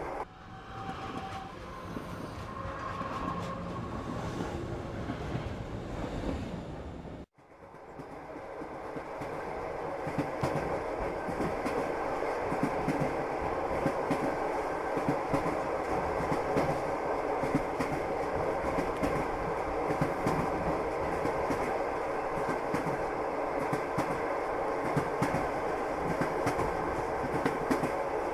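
Train carriage wheels clattering over the rails while crossing a railway bridge: a steady, dense clickety-clack. It breaks off suddenly about seven seconds in and resumes a little louder.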